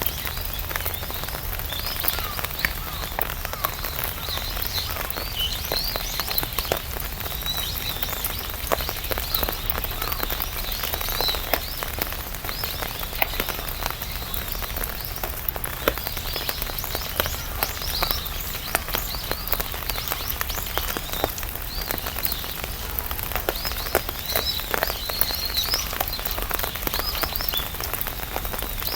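Steady rain pattering on an umbrella canopy: a dense, irregular tapping of drops. Short high chirps come and go behind it.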